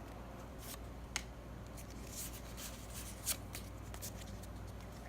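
Pokémon trading cards being handled, with faint, scattered clicks and slides of card against card over a steady low hum.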